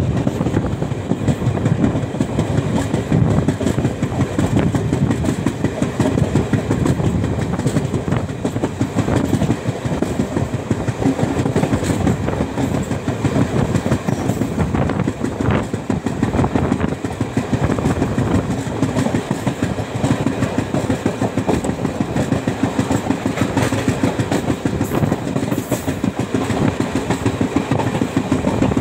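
Indian Railways express passenger train heard from on board, running with a steady rumble and a rapid clickety-clack of steel wheels over the rails.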